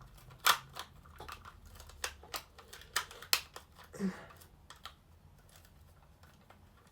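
Scattered sharp clicks and taps from the plastic parts of a Buzz Lightyear action figure being handled during a repair. There are about seven in the first four seconds, then they thin out.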